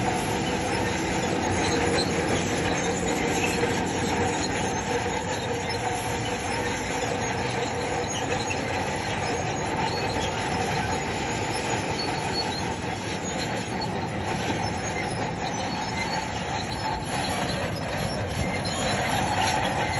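Crawler bulldozer working, its engine running with the steel tracks squealing and clanking steadily.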